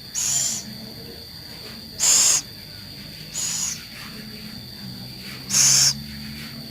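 A captive scops owl giving short, raspy hisses, four of them about one and a half to two seconds apart.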